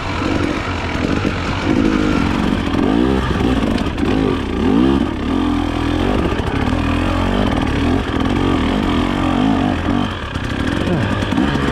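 Dirt bike engine revving up and down again and again as it is ridden over rough trail, the throttle opened and closed in quick surges.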